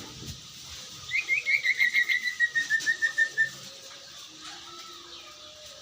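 A bird calling a rapid string of about twenty short, whistled notes that slowly fall in pitch, lasting about two and a half seconds.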